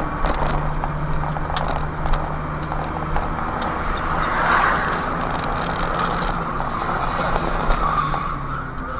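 A car on the move, heard from inside: steady engine and road noise with a low hum, and a swell of hissing tyre or road noise about four and a half seconds in.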